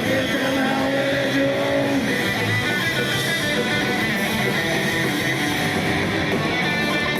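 A rock band playing live and loud, with electric guitar to the fore over bass and drums, recorded from the crowd.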